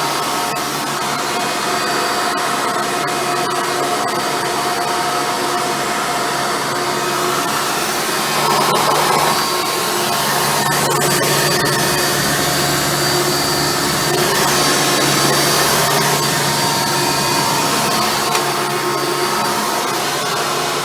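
Hoover Futura upright vacuum cleaner running steadily, a constant motor hum with steady tones, growing a little louder twice along the way.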